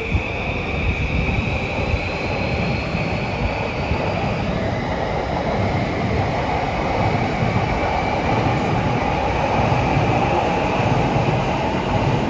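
Electric commuter train running at a station platform: a steady rumble of wheels on rail under a thin high whine that slowly rises in pitch over the first few seconds, the rumble growing a little louder toward the end.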